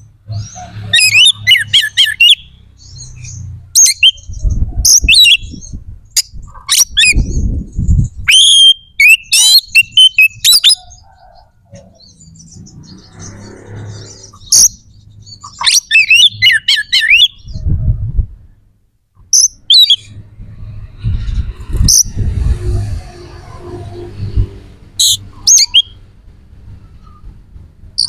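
Oriental magpie-robin singing loudly in bursts of rapid, varied chirps and whistled notes with short pauses between phrases. Low thuds and rumbles come in now and then under the song.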